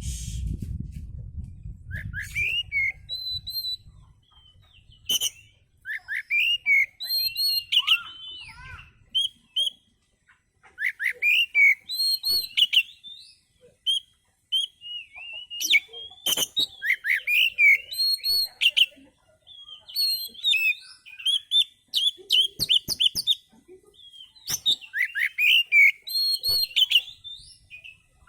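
Oriental magpie-robin (kacer) singing: varied whistled phrases and sharp chirps in short bursts with brief pauses. A low rumble sits under the first couple of seconds.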